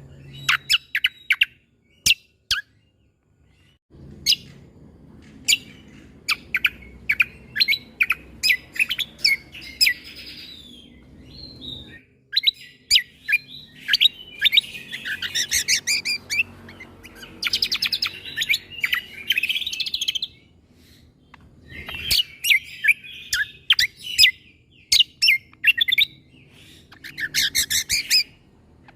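Cucak kombo (kecial kombok) singing: loud, sharp staccato 'tembakan' (shot-like) notes fired in quick bursts, mixed with dense chattering trills, phrase after phrase with short pauses between.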